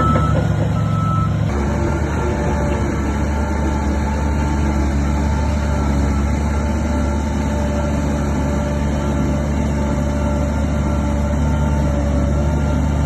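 Heavy earthmoving machinery's diesel engine running steadily under a reversing alarm beeping, with an abrupt change in the sound about a second and a half in.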